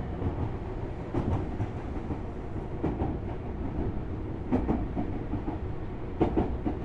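Tobu Railway Series 6050 electric train running, heard from inside the motor car: a steady low rumble with wheels knocking over rail joints in quick pairs, about every one and a half to two seconds.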